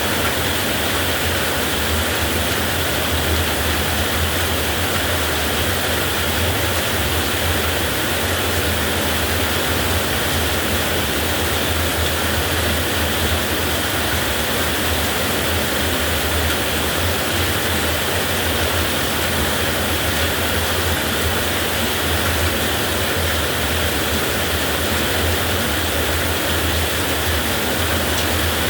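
Heavy rain falling steadily, a dense even hiss with no thunderclap or change.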